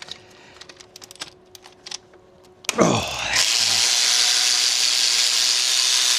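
Faint scattered clicks of tools being handled. After a brief spoken 'Oh', a loud, steady hiss starts suddenly and stops abruptly after nearly three seconds.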